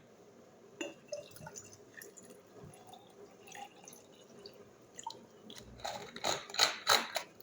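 Water dripping and trickling into a glass cup holding scent leaves, with a few sharper knocks near the end.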